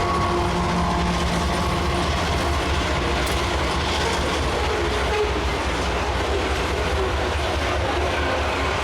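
Freight train rolling past, a steady rumble of wagons on the rails.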